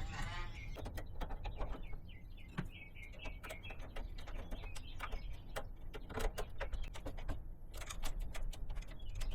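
Scattered light clicks and taps of hand work on wiring, with a quick run of high chirps about two to four seconds in.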